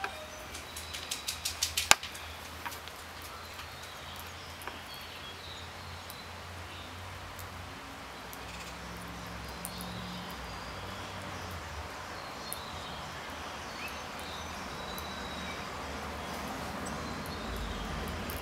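Outdoor background with faint, scattered bird chirps over a low steady hum. Near the start, a quick run of about eight sharp clicks grows louder and ends in one loud click.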